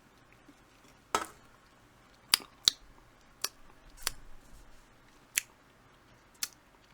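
A handful of short, sharp mouth clicks and lip smacks, about seven spread unevenly, as a Double IPA is sipped and tasted.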